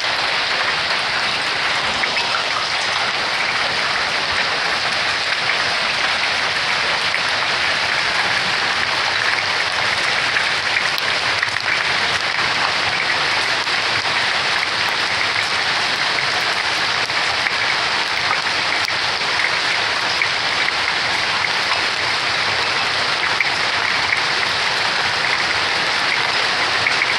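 Pea- and marble-sized hail mixed with rain pelting down steadily, a dense unbroken clatter as the stones hit and bounce on a walkway and the roof.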